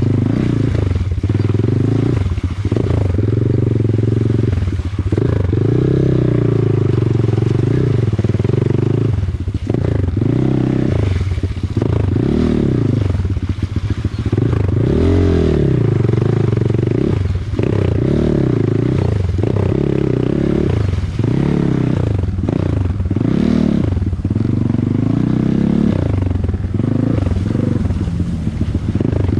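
Off-road motorcycle engine being ridden hard, its note rising and falling over and over as the throttle opens and closes.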